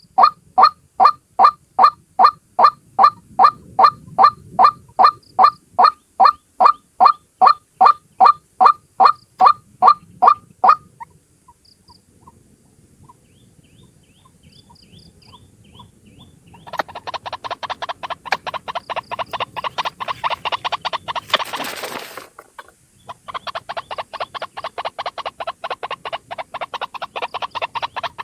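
White-breasted waterhen (ruak-ruak) calls played as a bird lure. For the first ten seconds or so there is a steady series of loud calls, about two a second. After a quieter stretch with only faint calls, a faster, denser run of calls begins, interrupted by a brief noisy burst a little after the middle of this run.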